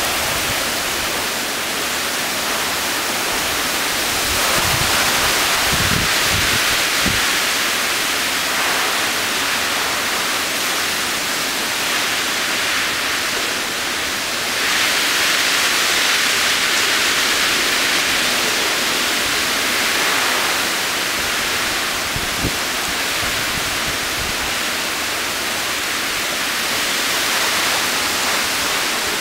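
Heavy rain from a passing hurricane pouring down steadily. It swells heavier a few seconds in and again just past the middle, with a few brief low thumps.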